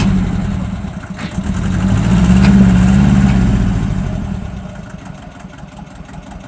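Tractor engine running with a low, even hum, louder for the first three seconds, then easing back to a quiet idle by about four to five seconds in.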